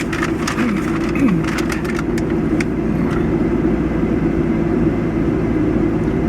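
A vehicle engine running steadily with a low rumble. A scatter of clicks and knocks comes over the first three seconds.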